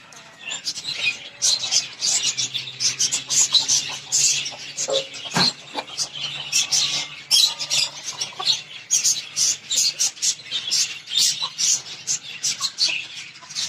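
Many small caged birds chirping continuously in quick, high-pitched bursts, with a single sharp knock about five and a half seconds in.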